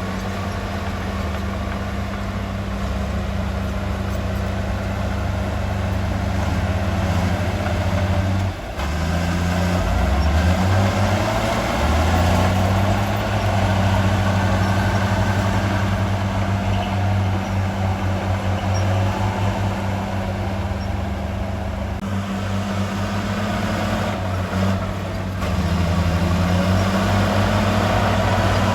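Heavy earthmoving machine's diesel engine running steadily with a low drone, its engine speed dipping and shifting about nine seconds in and again a few seconds before the end.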